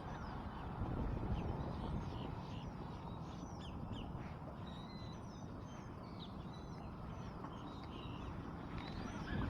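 Wind buffeting the microphone, with many short bird chirps and calls scattered throughout.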